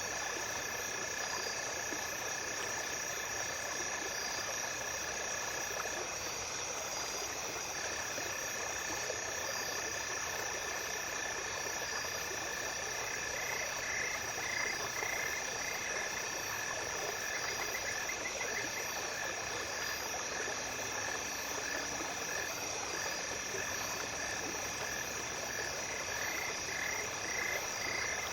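Night stream ambience: a small stream running steadily, with insects trilling in long unbroken calls and short pulsed chirps coming in now and then.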